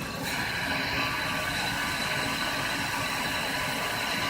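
Car engine idling with the hiss of a vacuum leak at a broken hard plastic vacuum line. A fraction of a second in, the hiss steps up louder and then holds steady.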